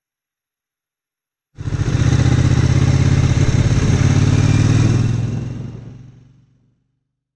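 Motorcycle engine and exhaust running steadily, likely the 2002 Triumph Bonneville America's air-cooled parallel twin under way. The sound cuts in abruptly about a second and a half in, holds a steady pulsing note for a few seconds, then fades away over the last second or so.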